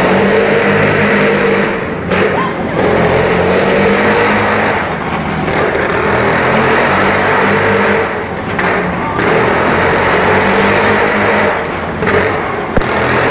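Jawa motorcycle engine running loud, easing off and picking up again about every three seconds.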